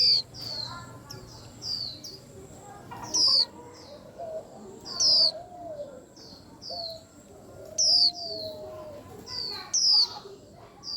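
White-eyes chirping busily, several birds overlapping in short, high, downward-slurred chirps, with a louder sharp chirp every two to three seconds. Twice around the middle a longer, lower wavering call sounds in the background.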